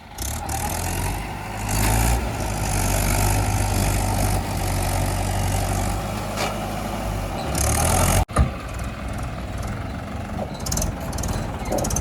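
Diesel farm tractor engines running steadily; about eight seconds in the sound cuts off abruptly and resumes as a lighter engine sound.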